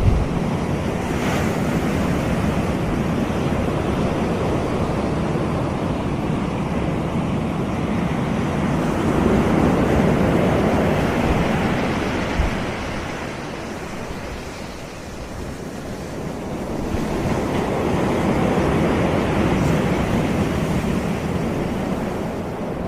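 Ocean surf breaking and washing on the shore in a steady wash of noise, swelling about ten seconds in and again toward the end, with wind rumbling on the microphone underneath.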